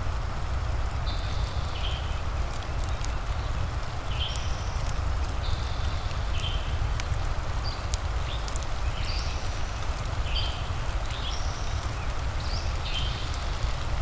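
Fireplace-and-rain ambience: a steady rushing hiss over a low rumble, with sharp crackling clicks from the fire. Short high chirps from an animal recur every second or so.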